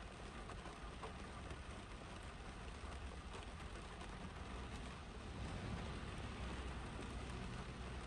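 Steady rain falling on a car's roof and windshield, heard from inside the cabin as a constant hiss dotted with small drop ticks. A low rumble swells about five seconds in and fades near the end: a car passing on the wet road.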